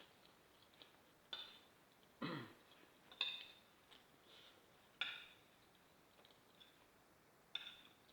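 Quiet eating sounds: about five short clinks and scrapes of a spoon on a plate, with a throat sound about two seconds in.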